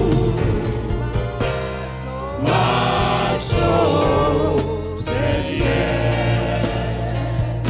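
Gospel worship music: singers, sounding like a choir, hold and bend notes over a band with a steady bass. The music dips briefly about two seconds in, then swells back.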